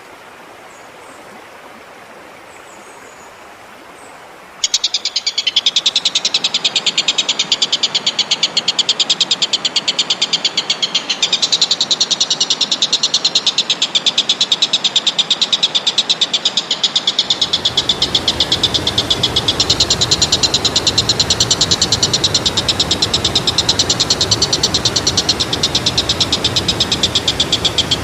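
Even rushing noise with a few faint high chirps, then about four and a half seconds in a loud, very rapid pulsing trill of an animal call starts abruptly and keeps going steadily; more low rushing noise joins past the middle.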